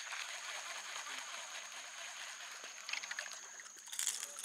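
Water splashing and trickling as a hooked speckled trout is brought in, the splashing getting louder near the end.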